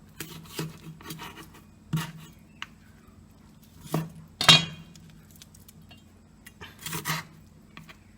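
Clinks and clatters of kitchen dishes and utensils being handled, about half a dozen separate knocks, the loudest about halfway through.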